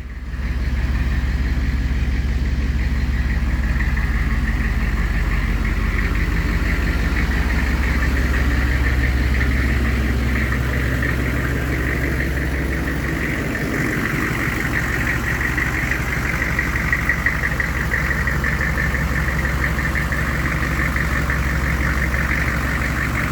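GMC 3500HD's 6.5-litre turbo-diesel V8 idling steadily with an even diesel clatter, running perfect.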